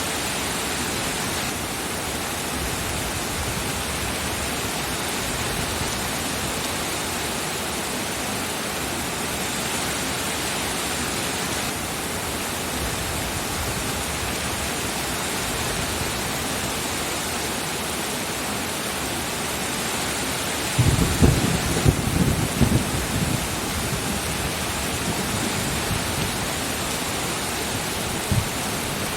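Steady rain falling in an even hiss, with a short burst of low thunder rumbling about three-quarters of the way through and a brief low thump near the end.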